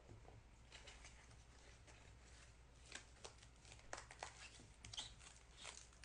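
Faint rustling and scattered light clicks of cardboard and wrapped card packs being handled and worked out of a tightly packed box. The clicks grow more frequent about halfway through.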